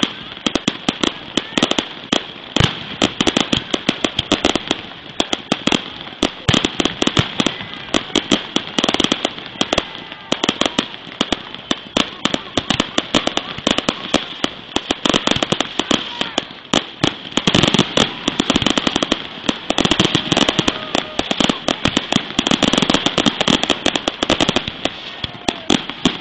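Fireworks display going off in rapid succession: a dense, continuous run of sharp bangs and crackles, many a second, with no let-up.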